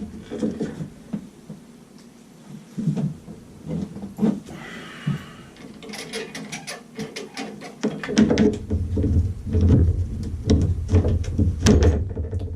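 Clicking, knocking and scraping of hand tools working on a tub and shower valve inside the wall, busier and heavier in the last few seconds.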